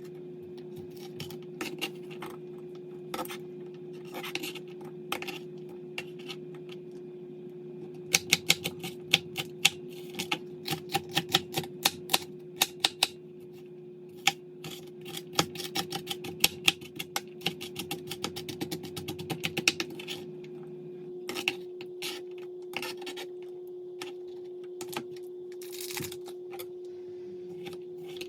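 Quick, light clicks and taps in irregular runs, densest in two stretches in the middle, over a steady low hum.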